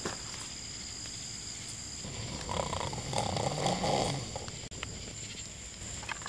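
A low, rough vocal sound lasting about two seconds in the middle, over a steady outdoor background with a high insect drone.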